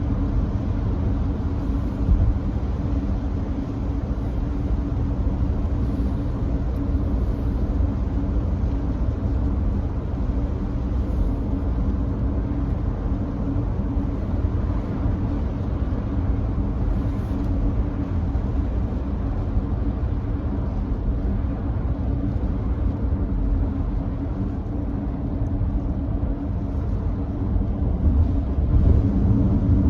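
Steady road noise inside a Nissan Note e-POWER cruising on a wet expressway: a low rumble of tyres on rain-soaked road, getting a little louder near the end.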